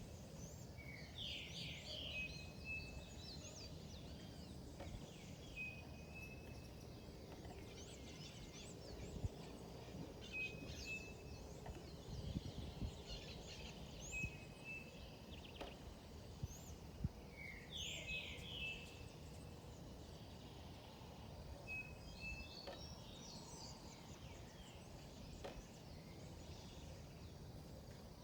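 Several wild birds calling over a steady low background noise. One bird repeats a short, level whistle every few seconds, and others give quick clusters of sweeping, chattering notes.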